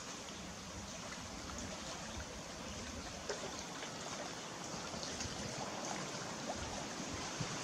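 A small stream of water running steadily, with faint drips and trickles on top.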